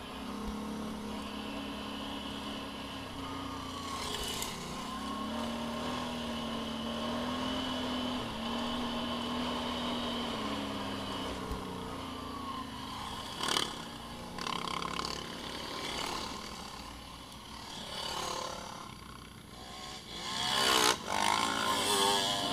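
Small off-road vehicle engines running, their pitch rising and falling with the throttle, with a louder swell near the end.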